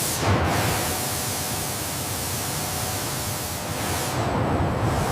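A steady hiss of noise spread across low and high pitches, with a brief louder swell about a third of a second in.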